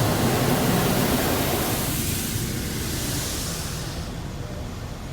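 Car wash water jets or blowers making a loud, steady rushing hiss that gradually fades, the highest part dropping away about four seconds in.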